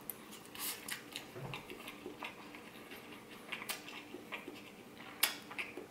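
A person chewing a mouthful of pineapple fried rice close to the microphone: scattered soft, wet mouth clicks and smacks.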